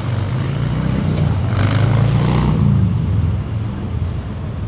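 A motor vehicle passing on a city street: a low engine rumble with tyre hiss that swells about one and a half seconds in and fades after about three seconds.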